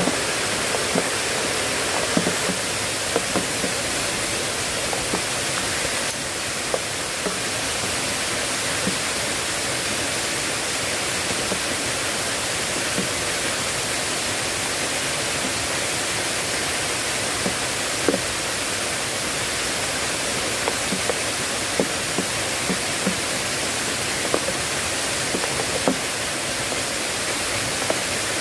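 Heavy rain falling, a steady hiss with scattered single drops tapping close by.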